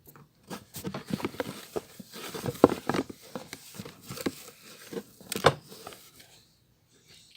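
Handling noise: a busy run of irregular crinkling and sharp clicks, with the two loudest clicks about two and a half and five and a half seconds in, dying away about a second before the end.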